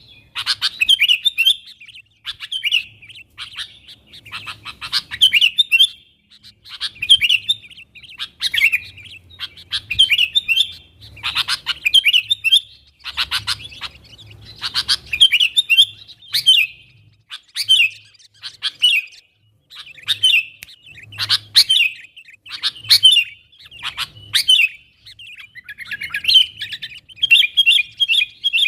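Sooty-headed bulbul (kutilang) calling busily, a lively calling-to-mates song used as a lure for wild bulbuls: short chirping phrases repeated every one to two seconds.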